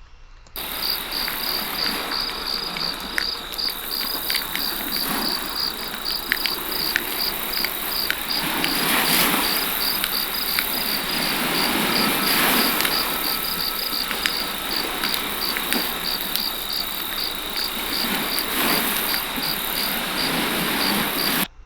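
A layered nature-sound mix: crickets chirping in an even pulse about twice a second over ocean waves that swell and wash back, with sharp crackles of a campfire and, midway, the faint low ring of a Tibetan singing bowl.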